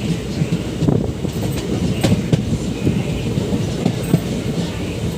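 Passenger train running on the track: a steady low rumble of the wheels and coach, with scattered sharp clicks.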